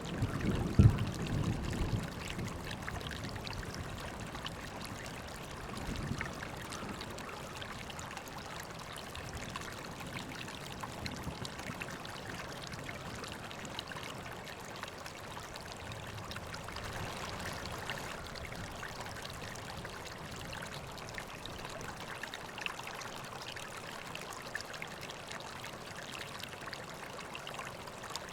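River water flowing and trickling steadily. A few low thumps come in the first two seconds, the loudest about a second in.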